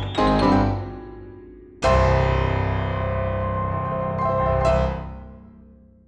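Background piano music: the end of a rising run of notes, then a full chord struck about two seconds in that rings out, a last note near the end of the chord, and a fade to silence.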